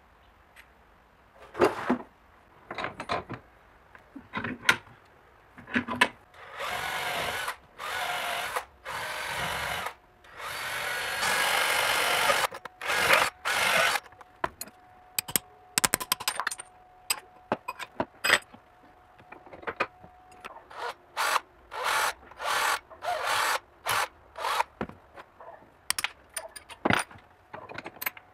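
A power tool run in repeated short bursts, with three longer runs of a couple of seconds each about a quarter to halfway through.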